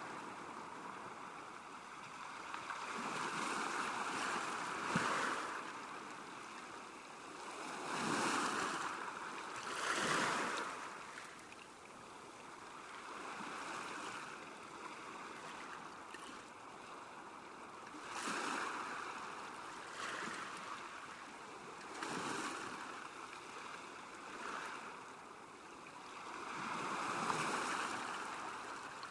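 Small waves washing onto a lakeshore, a steady water hiss that swells and falls back every few seconds, with a few stronger surges.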